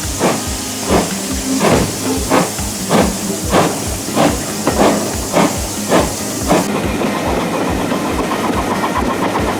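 Steam locomotive working with steam hiss and evenly spaced exhaust chuffs, about one and a half a second. About seven seconds in, the chuffs stop abruptly and give way to a steady rushing noise.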